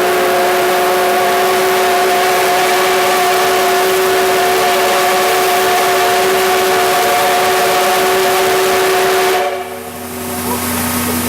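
Steam whistle of the D51 steam locomotive blowing one long, loud, steady chord that cuts off suddenly about nine and a half seconds in, leaving a low steady hum.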